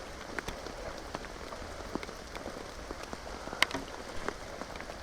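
Rain falling steadily, with individual drops tapping sharply close to the microphone; one louder tap about three and a half seconds in.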